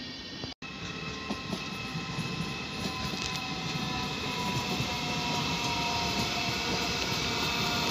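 A train moving through a station: a steady rumble with several steady high tones, getting gradually louder. The sound drops out completely for a moment about half a second in.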